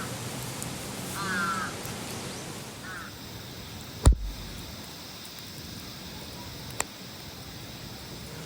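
A crow cawing a few times in the first three seconds over a steady hiss. About four seconds in, a sharp knock with a low thud is the loudest sound, followed by a smaller click near seven seconds.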